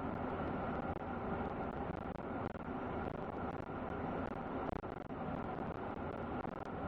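Steady road and engine noise of a truck being driven.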